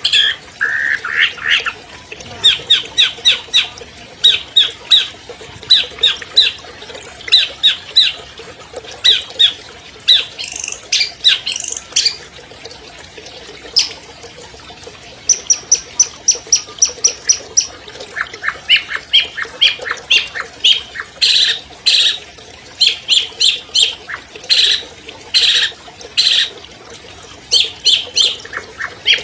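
Long-tailed shrike (cendet) singing a loud, varied song of quick chattering phrases of short high notes, with a run of even, rapid high notes about halfway through.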